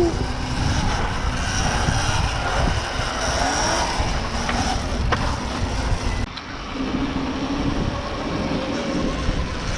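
Riding an electric dirt bike: steady wind rumble buffeting the microphone, with a faint motor whine rising and falling. The sound changes abruptly about six seconds in.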